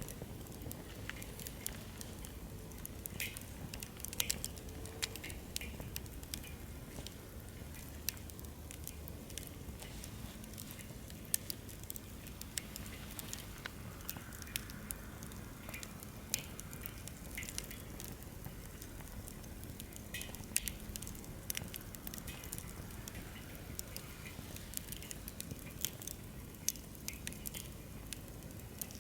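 Wood campfire crackling, with irregular sharp pops and snaps over a low, steady rumble of flame.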